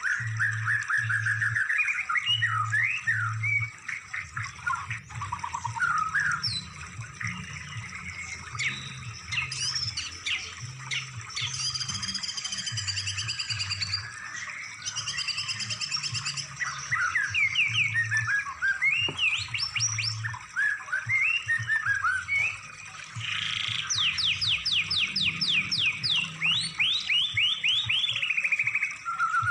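Recorded songbird song played as masteran training material for caged birds: a continuous medley of fast trills, chirps and whistled phrases, with a run of rapid repeated notes about 24 seconds in. A low pulsing beat runs underneath.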